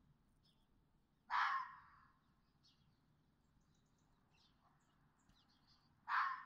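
Red fox barking twice, one short bark about a second in and another near the end, with faint small-bird chirps in between.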